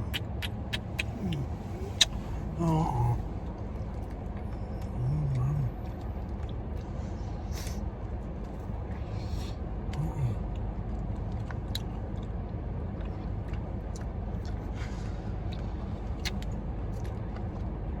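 Steady low rumble of a parked car's engine idling, with scattered small clicks and a few short bits of voice.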